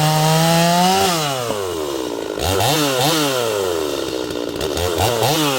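Stihl MS250-clone two-stroke chainsaw held at full throttle, then let off about a second in so the engine falls toward idle, followed by a few quick throttle blips that each rev up and drop back.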